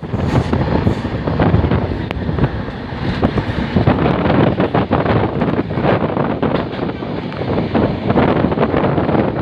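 Wind buffeting the microphone over the rumble and irregular clatter of a moving train.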